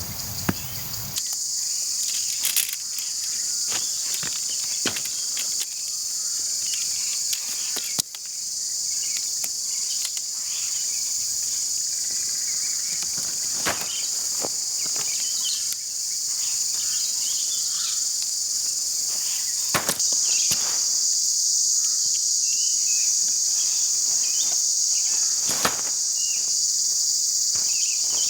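Steady, high-pitched insect chorus, with scattered short clicks and knocks from tent-pitching gear being handled.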